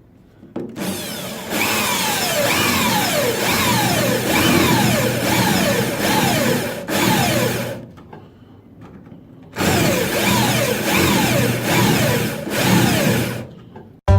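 Power drill with a spot weld drill bit cutting out the spot welds in a steel car body panel. It runs in two long stretches with a short stop about eight seconds in, and a squeal that falls in pitch comes over and over as the bit cuts.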